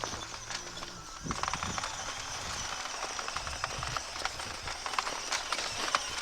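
Irregular crunching and clicking of packed snow, with a faint small-motor hum in about the first second.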